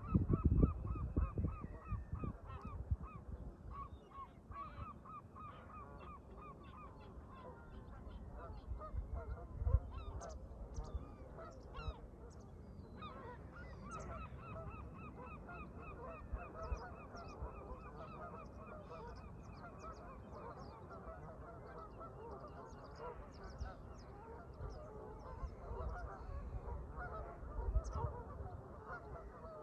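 A flock of Canada geese honking, many calls overlapping in a steady chorus. Wind rumbles on the microphone in gusts at the start, about ten seconds in, and near the end.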